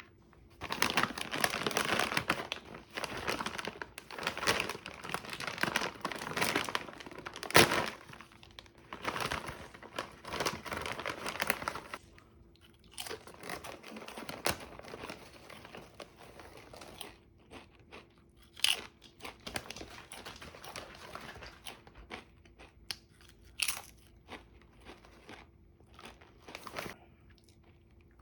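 Snack packaging crinkling and rustling for about ten seconds, then sparser crackles and crunches.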